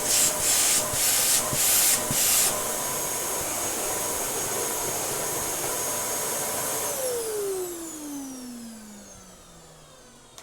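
Dyson DC07 Allergy bagless upright vacuum cleaner running with a steady high motor whine, with several loud rushing surges of air in the first couple of seconds. About seven seconds in it is switched off, and the motor winds down with a steadily falling whine.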